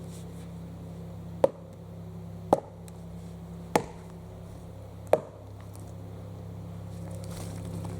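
Axe striking a log four times, about one blow every second and a quarter, each a sharp chop; the log has not yet split.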